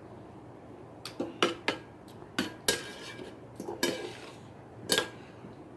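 Eating utensil clinking against a bowl of noodles, about eight sharp, irregular clinks starting about a second in.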